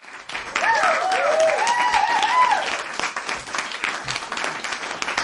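Crowd applauding, a dense crackle of clapping, with a few voices cheering in rising and falling whoops during the first couple of seconds.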